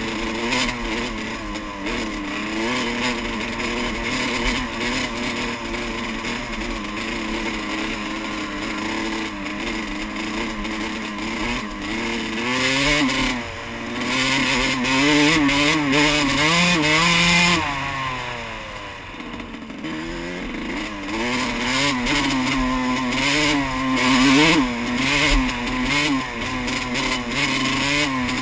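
Yamaha YZ125 dirt bike's two-stroke single-cylinder engine revving up and down as it is ridden. About two-thirds of the way through the revs drop and it goes quieter, then it picks up again.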